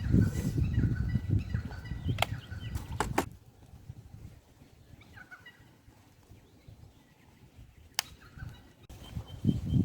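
A bird calling in quick runs of short repeated notes, over a campfire that gives a few sharp pops and crackles.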